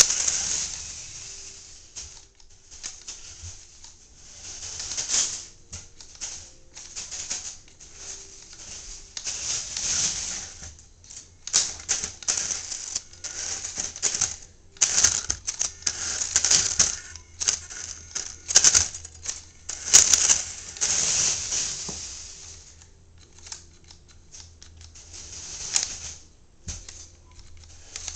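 XMODS RC monster truck's small electric motor and gears whining in repeated short bursts as the throttle is feathered, mixed with clicks and clatter from the truck.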